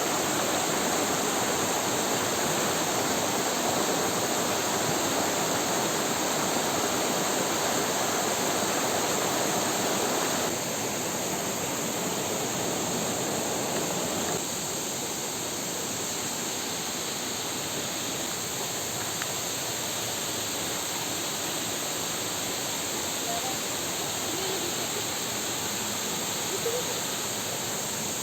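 Waterfall and river water rushing steadily, stepping a little quieter about ten seconds in and again a few seconds later.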